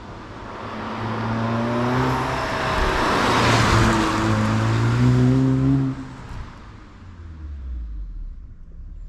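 Audi S3 8V's turbocharged 2.0-litre four-cylinder engine and exhaust under throttle as the car drives past, the engine note climbing and growing louder to a peak around midway. The sound drops away abruptly just before six seconds in.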